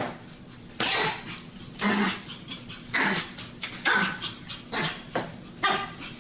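A dog barking repeatedly, about once a second.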